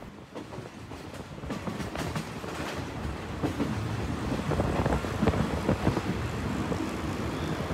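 Passenger train running on the rails, heard from inside the carriage: a steady rumble with irregular rattles and wheel clicks, getting louder toward the end.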